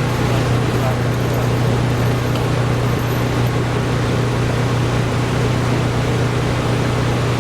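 Steady low machine hum over a constant noise, unchanging throughout.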